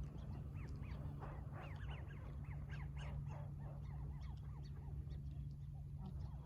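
A flock of water birds calling, many short honking calls overlapping, busiest in the first few seconds and thinning out toward the end, over a steady low hum.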